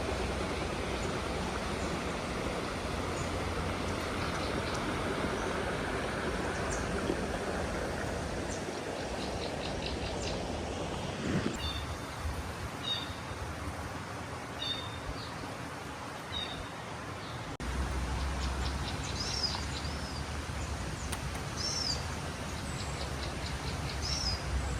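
Wild birds calling in forest: first a run of short repeated chirps, then a bird repeating a clear rising-and-falling whistle about every two seconds, over a steady background hiss.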